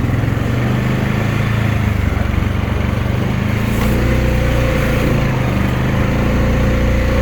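2020 Honda Rubicon 520 ATV's single-cylinder engine running steadily while riding in four-wheel drive; the engine note picks up slightly about four seconds in, with a higher whine joining it.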